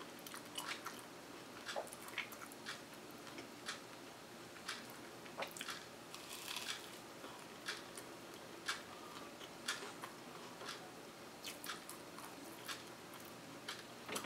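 A person chewing a mouthful of toasted waffle and ice cream: faint, irregular mouth clicks and smacks, one or two a second.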